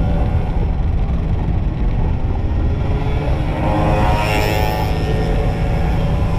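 Two-stroke motorcycle engines running under way, a steady buzzing drone mixed with wind rumble on the microphone. About four seconds in, a higher engine note swells and fades again.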